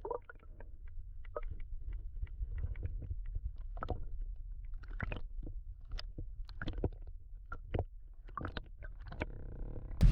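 Low steady rumble with light, irregular clicks and knocks, a few to several a second, from the kayak and fishing gear while a tuna is fought alongside. A short hum comes in near the end.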